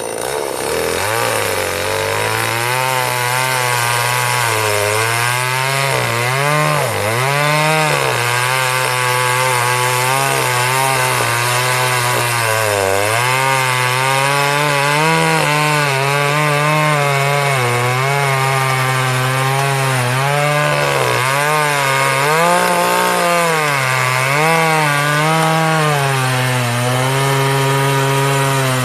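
Chainsaw running and cutting through the trunk of a fallen tree, its engine pitch dipping and rising again and again as the chain bites and frees.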